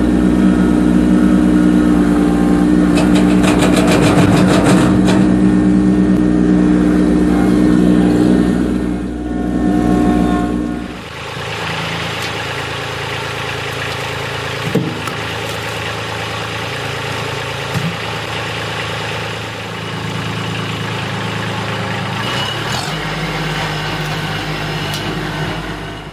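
Kubota LX2610 compact tractor's diesel engine running steadily, loud for the first eleven seconds, then dropping to a lower, quieter steady note.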